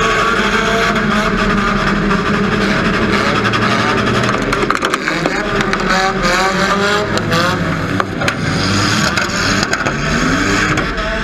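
Demolition derby cars' engines revving up and down, several running at once, with a cluster of sharp metal knocks from car-on-car hits in the middle.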